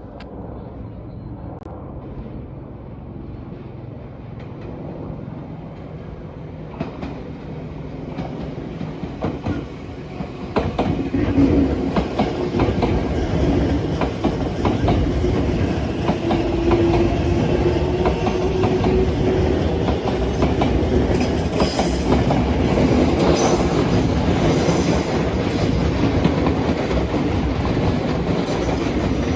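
Tobu line electric train growing louder as it comes in, then running past close by from about a third of the way in, wheels clacking over rail joints with some high wheel squeal.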